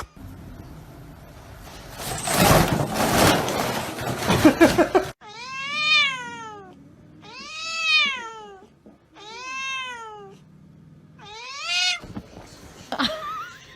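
A cat meowing four times, long rising-and-falling meows about two seconds apart, after a few seconds of loud, rough noise.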